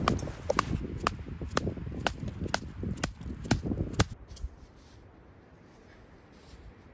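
Sharp, regular knocks, about two a second, over rustling, stopping about four seconds in.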